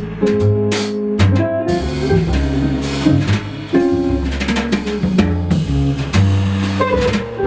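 Jazz trio playing live: guitar over sustained bass notes and a drum kit, with frequent drum hits.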